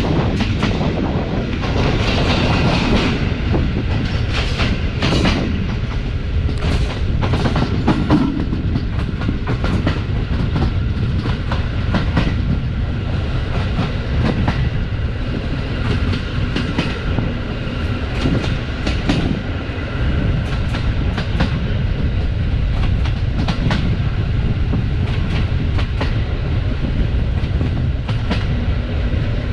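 Passenger train coaches running along the track: a steady rumble of wheels on rail, with repeated sharp clicks and knocks as the wheels cross rail joints and points.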